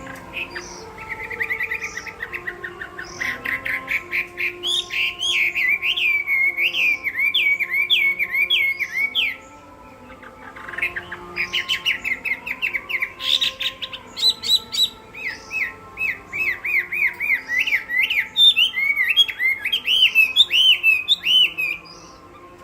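Chinese hwamei singing a loud, fast fighting song of rapidly repeated whistled notes that sweep up and down, in two long bouts with a short pause about halfway through.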